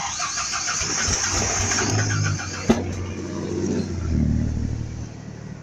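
A truck's starter cranking the engine, which catches with a low rumble for a couple of seconds and then dies away near the end: the truck is failing to start.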